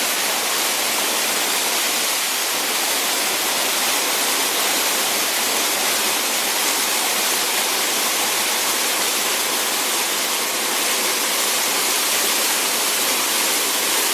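Small waterfall splashing close by: a steady, even rush of falling water.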